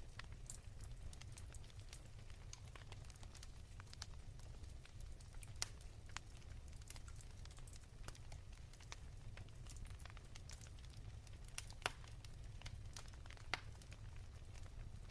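Wood fire crackling softly in a fireplace: scattered small snaps and pops over a low steady rumble, with a few sharper pops in the second half.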